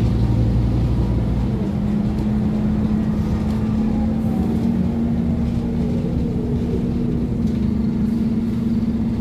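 Scania Omnicity N230UD double-decker bus running on the move, with a steady engine drone and a low rumble that eases about a second and a half in.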